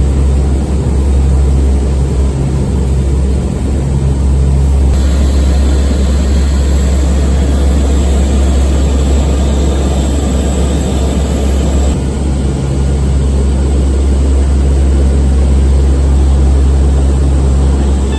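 Coast Guard C-130's four turboprop engines and propellers droning steadily in flight, heard from inside the aircraft: a loud, deep, continuous drone whose character shifts slightly about five and twelve seconds in.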